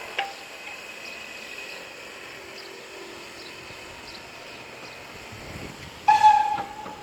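Steam locomotive whistle giving one short, loud blast about six seconds in, over a steady background hiss, with a sharp click near the start.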